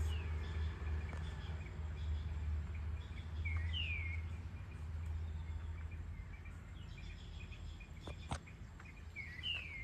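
Outdoor evening ambience: a steady low rumble under a bird calling twice, each call a short note followed by a falling whistle, about six seconds apart. A single sharp click sounds near the end.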